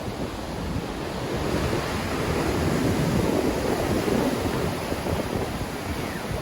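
Black Sea waves surging and breaking in strong wind, one swell rising to its loudest about three seconds in and then easing off. Wind buffets the microphone throughout.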